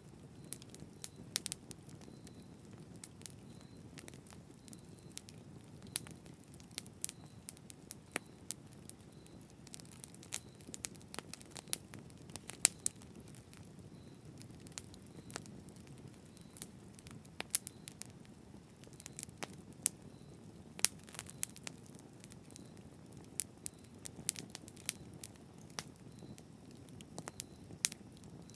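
Campfire burning: wood crackling and popping in irregular sharp snaps over a steady low rush of the flames.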